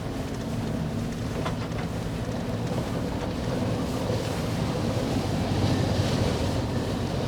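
A car engine running steadily under wind noise.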